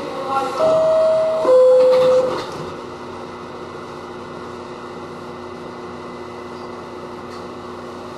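Westinghouse R68 subway car's two-tone door chime, a higher tone then a lower one, each held just under a second, warning that the doors are about to close. A steady hum from the car follows.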